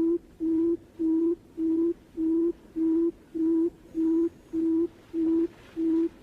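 Barred buttonquail booming call used as a hunting lure: a steady run of short, low hoots on one pitch, a little under two a second.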